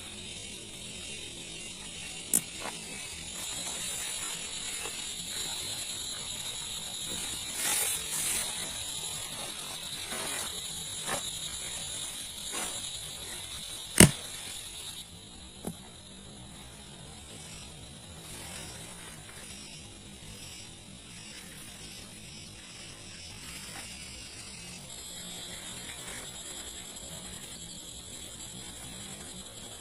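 Forest insects chirring steadily at a high pitch, with a few sharp clicks, the loudest about halfway through. The chirring thins a little just after the middle.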